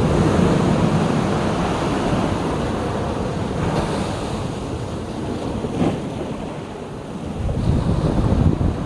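Sea waves breaking and washing on the shore, swelling at the start and again near the end, with wind buffeting the microphone.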